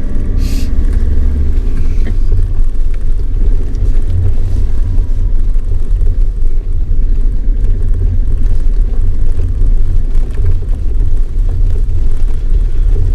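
Vehicle driving over a snowy mountain road, heard from inside the cabin: a loud, steady low rumble of engine and tyres, with a brief hiss about half a second in.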